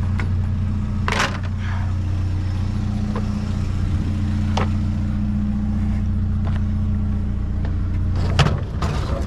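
Small truck's engine idling steadily, with a few sharp clicks and a quick cluster of knocks near the end.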